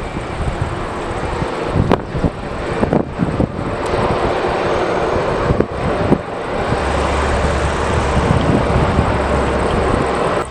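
Jet aircraft engines running loudly, with heavy wind buffeting on the microphone; a steady low drone comes in about two-thirds of the way through.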